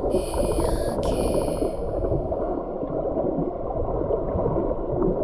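Muffled underwater noise in a stream: a dense, steady rushing with bubbling and gurgling, with almost no high sounds, as heard by a submerged camera.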